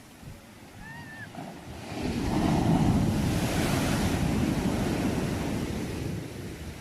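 A sea wave breaking and washing up the shore: the rush swells about two seconds in, holds loud for a couple of seconds, then slowly fades away. A faint short chirp is heard about a second in.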